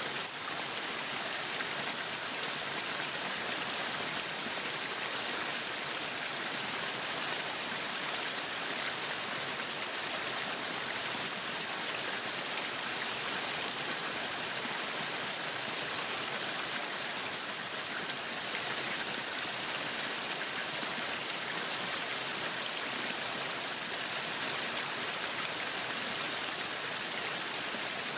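Meat sizzling on a yakiniku grill, a steady, even hiss.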